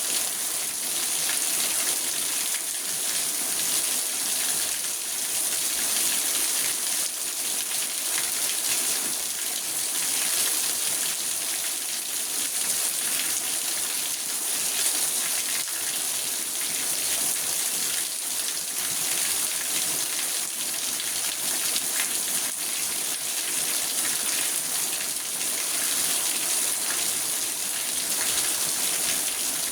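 Steady rain falling on a car's roof and windows, heard from inside the car: an even hiss with scattered drop patter.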